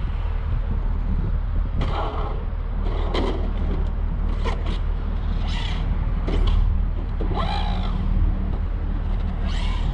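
Radio-controlled truck running in short bursts, about six times, over a steady low rumble.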